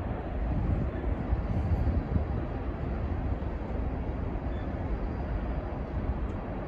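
BNSF coal train's hopper cars rolling past: a steady low rumble of steel wheels on the rails.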